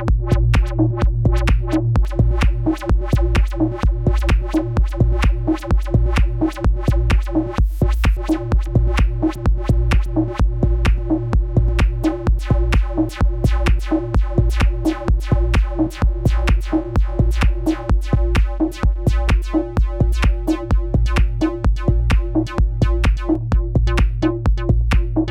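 Experimental techno made with Ableton Live 10's built-in devices: a steady drum-machine beat over a deep, sustained bass and a repeating synth pattern.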